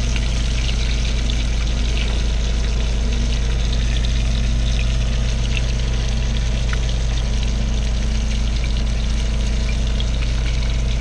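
Whole yellow bullhead catfish frying in oil in a skillet, a steady sizzle with small crackles. Under it runs a loud, steady low machine hum.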